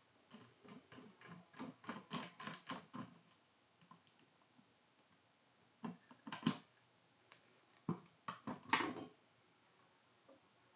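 Light clicks and taps of small tools and parts being handled while a camera's keypad panel is taken apart: a quick run of them in the first three seconds, then a few single sharp clicks.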